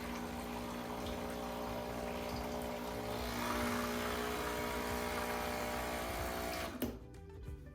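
Breville Barista Express espresso machine running a blank shot: its pump hums steadily as hot water runs through the group head, the flow getting louder about halfway through. Near the end the pump cuts off suddenly with a click.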